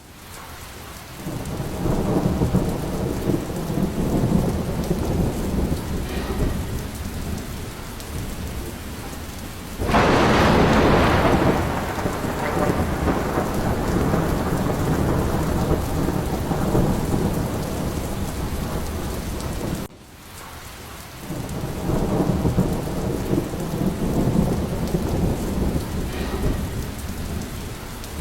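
Steady rain with rolling thunder: low rumbles swell and fade, and a loud, sharp thunderclap about ten seconds in dies away over several seconds. The sound dips briefly about twenty seconds in before another long rumble builds.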